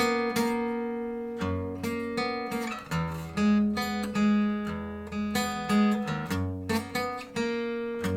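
Recorded song playing: acoustic guitar strumming chords, struck again every second or so and moving through several chord changes, with no singing.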